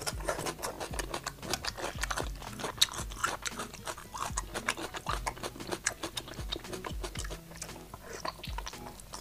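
A person chewing and biting spicy braised food, crisp lotus-root slices among it, with many quick crunching clicks. Background music with a repeating bass line runs underneath.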